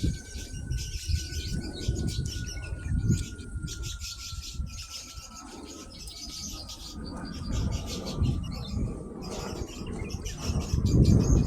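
Many small birds chirping and twittering continuously, over a low rumble. A faint steady whine slowly falls in pitch through most of it.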